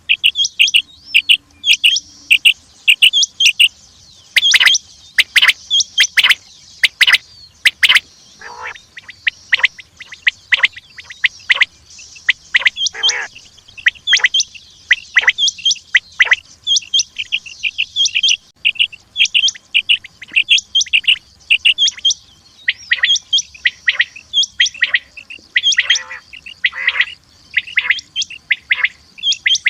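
Common quail calling over and over: short, sharp, high notes repeated in quick clusters.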